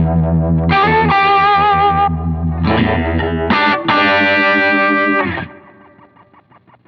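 Electric guitar through fuzz and a Uni-Vibe-style pedal (Fulltone Octafuzz and Mini DejaVibe), playing sustained wavering notes and chords. The playing stops a little over five seconds in and leaves a faint pulsing tail.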